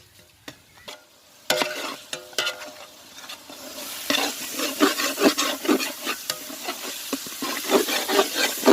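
Onion, ginger, garlic and spices frying in hot oil, sizzling, while a spoon stirs and scrapes the pan in repeated strokes; the sizzle swells from about four seconds in.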